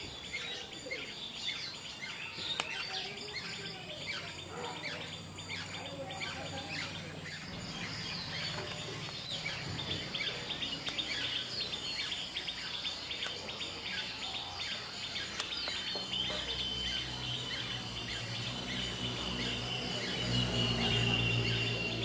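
Many small birds chirping and twittering at once, a dense chorus of short overlapping calls. A low steady hum sits underneath at times, and a thin, slightly falling held tone comes in about two-thirds of the way through.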